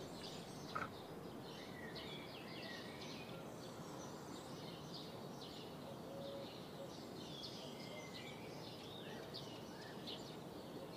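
Small birds chirping and calling here and there over faint, steady outdoor ambience. There is one brief sharp sound about a second in.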